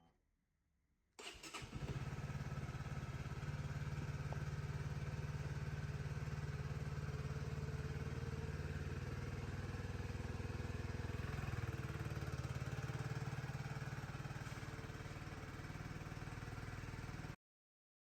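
Honda CB125R's 125cc single-cylinder engine starting about a second in, then idling steadily until it cuts off suddenly near the end.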